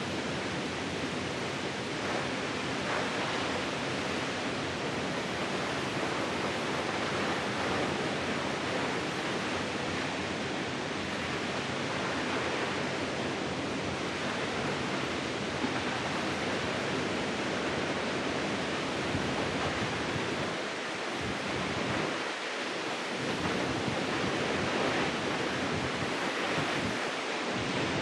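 Steady roar of a large waterfall: a constant rushing of falling water.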